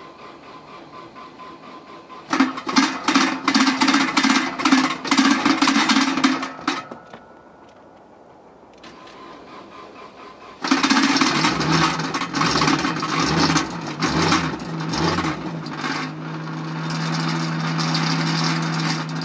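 Nissan Almera N15 starter cranking the engine in deep frost: a first long crank of about four seconds fails to start it, then after a pause a second crank catches with uneven, stumbling firing before the engine settles into a steady cold-start idle near the end.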